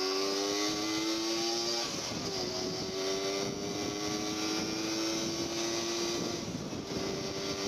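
Yamaha RXZ 135's two-stroke single-cylinder engine pulling under acceleration on the highway, its pitch climbing steadily in each gear and dropping at gear changes about two seconds in and again about six seconds in. Steady wind and road rush runs underneath.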